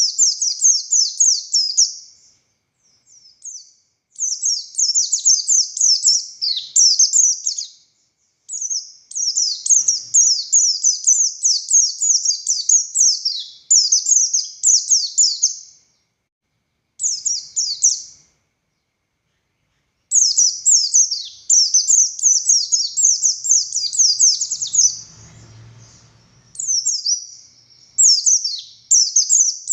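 Buxtoni white-eye (pleci) singing long, rapid phrases of high, quick chattering notes, the full continuous song bird-keepers call 'ngalas'. The phrases are broken by short pauses, the longest about 2 s, shortly after the start and again past the middle.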